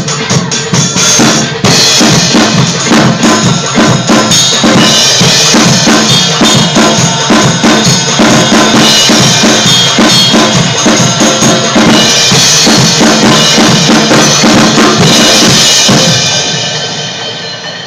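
Drum kit played hard and fast: a busy beat of bass drum, snare and cymbals, tailing off near the end.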